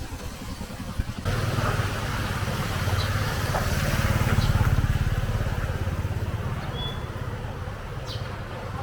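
A motor vehicle's engine running close by with a hiss of street noise over it, starting suddenly about a second in, loudest near the middle and slowly fading.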